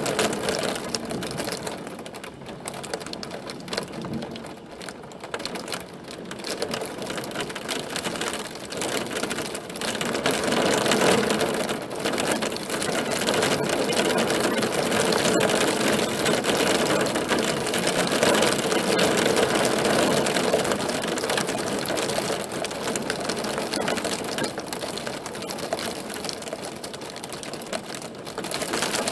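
Hail falling: a dense, rapid clatter of hailstones striking a hard surface, heavier from about ten seconds in.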